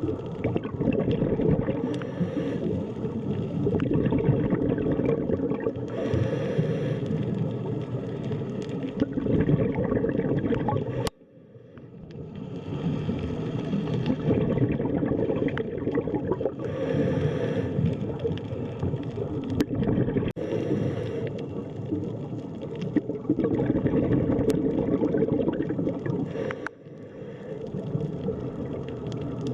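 Underwater sea ambience: a steady low rumble of water with bubbling and gurgling through it. It cuts out abruptly about eleven seconds in and fades back up over a few seconds.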